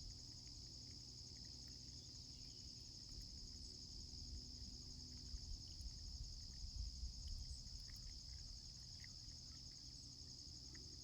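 Steady high-pitched insect chorus trilling without a break, with a few faint light ticks about halfway through.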